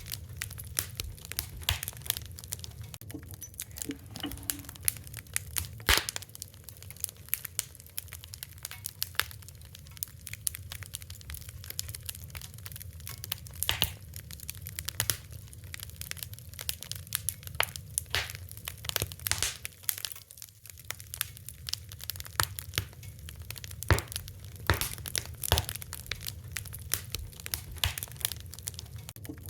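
Wood fire crackling: irregular sharp pops and snaps, many per second, some louder than others, over a steady low rumble of the flames.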